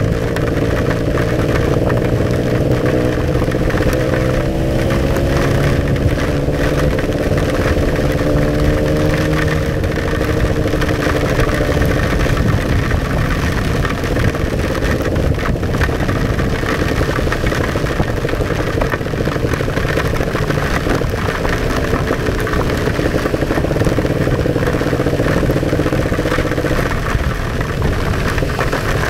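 Kawasaki Ninja 150 RR's single-cylinder two-stroke engine running under way, heard from inside the rider's helmet. Its pitch climbs and drops several times as the rider works the throttle.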